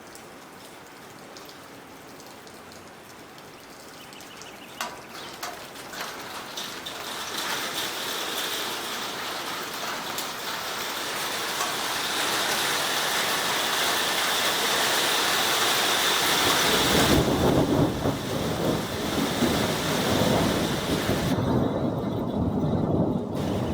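Rain shower arriving: a light patter with a few separate drops hitting, building steadily into a heavy downpour. About two-thirds of the way through, a deep rumbling layer joins it and it becomes loud.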